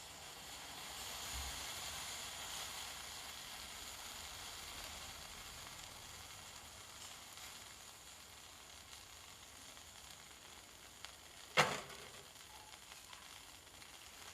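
Steady sizzling hiss from the fire in a Kamado Smart Grill B5 tabletop grill, swelling over the first few seconds and then slowly easing. One sharp knock near the end is the loudest sound.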